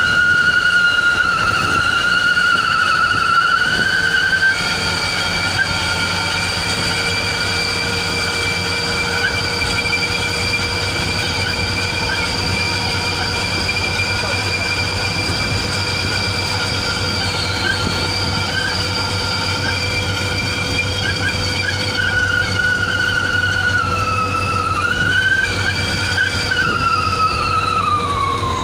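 Truck's whistle exhaust (knalpot serigala, 'wolf' exhaust) howling while under way: a loud, high whistling tone with overtones, held fairly steady, its pitch wavering up and down near the end before falling away. A low engine drone runs underneath.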